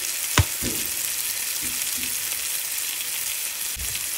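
Spice masala with tomato sizzling steadily in hot mustard oil in an iron pan as it is stirred, with one sharp knock about half a second in.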